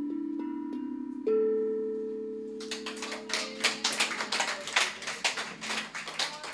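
The last notes of an instrumental improvisation ring out and fade, a new note struck just over a second in. Audience applause starts about two and a half seconds in and carries on.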